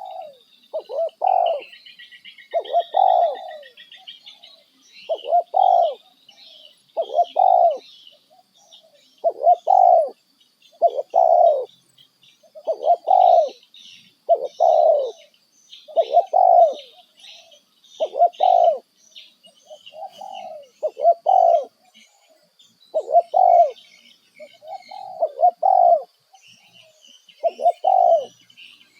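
A bird repeating one short, low call about every one and a half to two seconds, with other small birds chirping and twittering more faintly in a higher register.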